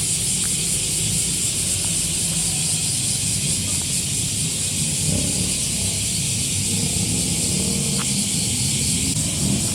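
Custom car's engine running at low revs as it moves slowly, a low exhaust rumble with small swells about halfway and near the end, under a steady high hiss.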